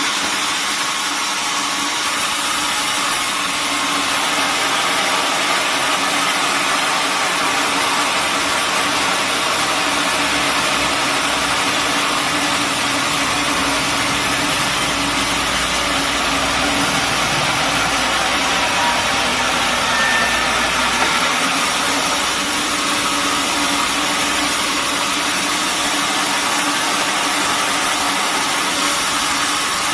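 Sawmill machinery running steadily, a loud even mechanical noise with a hum. A deeper rumble comes in partway through and drops away again.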